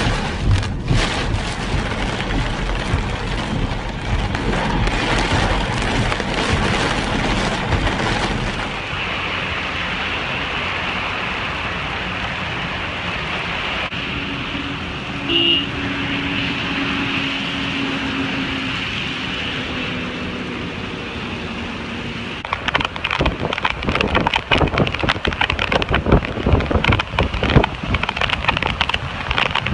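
Rain and storm noise in several stretches, with a low steady hum through the middle and a short beep about halfway. Near the end, rough crackling noise of wind or rain hitting the microphone.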